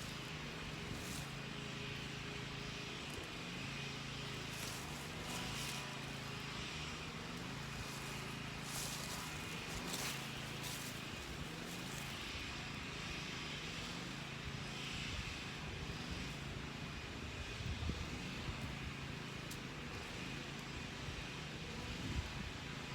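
A low, steady engine hum from a distant vehicle or aircraft, with brief crisp rustles and snaps of cedar foliage being picked by hand, most of them in the first half.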